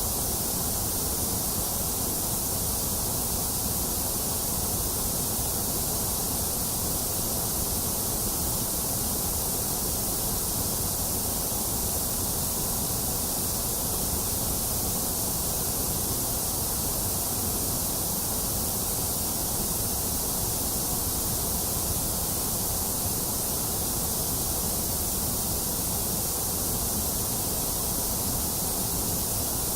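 White noise: a steady, unchanging hiss with no breaks or shifts in level.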